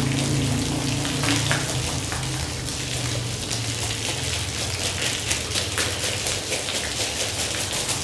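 Water spraying and splattering onto a wet rug during washing, a steady hiss full of small splashes, over a low steady motor hum.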